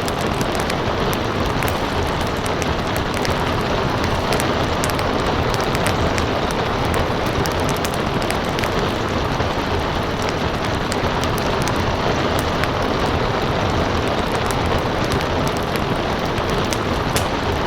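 Steady rain mixed with a crackling wood fire: an even rushing hiss with frequent small sharp crackles over it.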